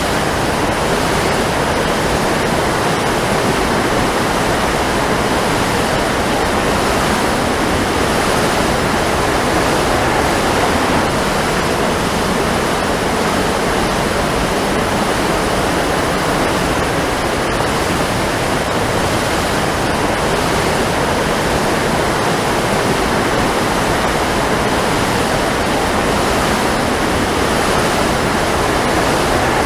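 Waterfall: falling water rushing in a steady, even roar of noise.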